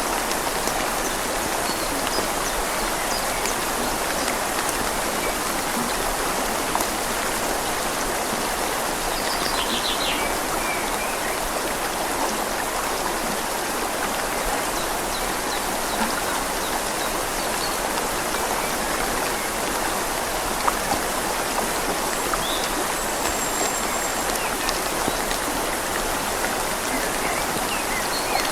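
Rain falling on leaves over a flowing river: a steady, even hiss with scattered faint drop ticks.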